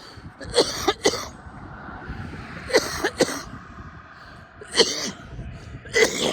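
A man coughing hard in bouts after a long vape hit: about six harsh coughs, mostly in pairs, spread over a few seconds.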